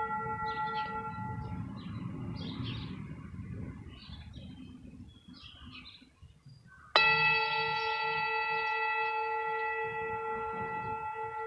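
Himalayan singing bowl ringing with a pulsing, wavering tone that dies away, while birds chirp; about seven seconds in the bowl is struck again and rings on.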